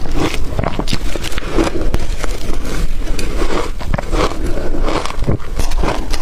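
Close-up crunching of blender-crushed ice being bitten and chewed: a steady run of sharp crackly crunches.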